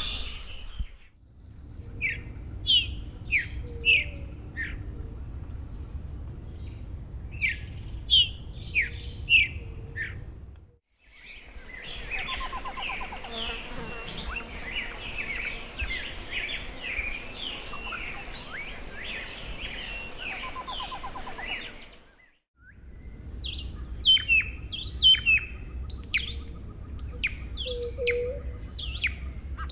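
Wild Tumbesian dry-forest birds singing, in three separate recordings one after another. First come short phrases of sharp downward-sweeping notes, then a dense chorus of many birds chirping. Last comes a series of clear whistled notes repeated about twice a second over a steady high thin tone.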